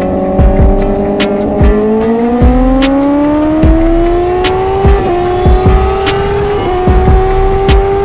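Music with a fast, steady drum beat over a superbike engine pulling hard, its pitch rising steadily for a few seconds and then holding high.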